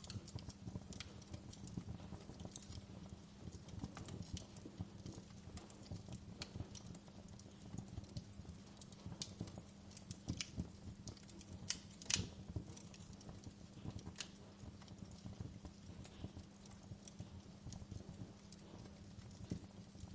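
Fire crackling: a dense, steady low crackle with scattered sharp pops, the loudest about twelve seconds in.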